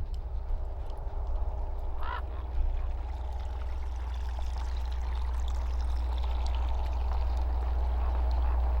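A steady low outdoor rumble that slowly grows louder, with a short bird call about two seconds in.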